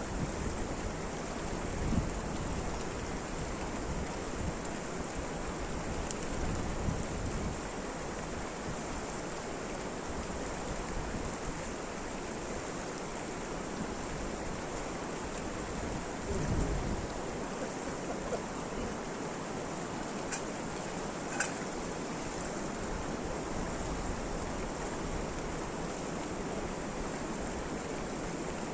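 Steady rain falling, an even hiss throughout, with a few dull low thumps and a short sharp click about three-quarters of the way in.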